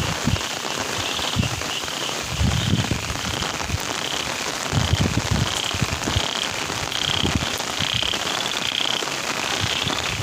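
Steady rain falling, with a repeated high-pitched call in short bursts over it and a few low rumbles.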